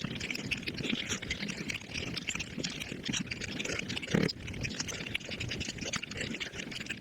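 Mukbang eating sounds played back fast: rapid, dense chewing, lip-smacking and wet slurping with no break, with one louder smack about four seconds in.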